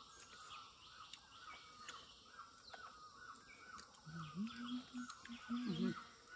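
A bird calling over and over, a short falling note about three times a second, against quiet outdoor background, with scattered faint clicks. A low voice is heard briefly in the second half.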